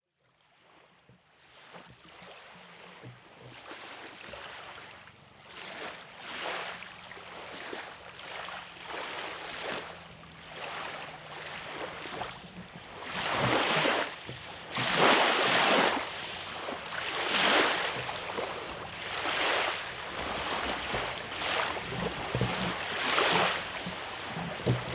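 Waves washing in on a shore, fading in from silence, with a swell breaking every couple of seconds and growing louder.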